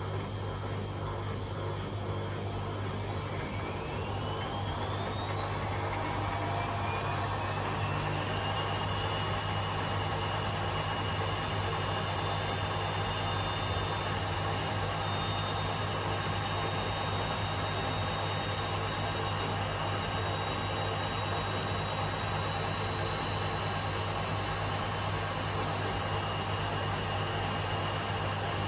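Two Hotpoint Aquarius washing machines spinning side by side, with a steady low hum from the drums. About three seconds in, a motor whine rises in pitch for several seconds as a drum speeds up, then holds steady at a high spin speed.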